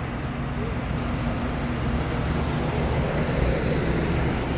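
Diesel truck engine running steadily, with a low even drone and road noise.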